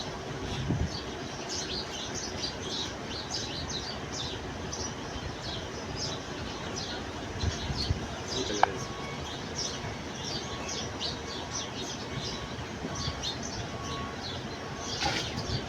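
Many small birds chirping continuously, quick short calls overlapping one another, with one short sharp squeak a little past halfway.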